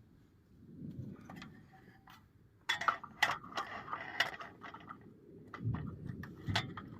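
Camp cooking gear being handled: a run of sharp clicks and light clinks, several a second, starting about three seconds in, with a quieter start before.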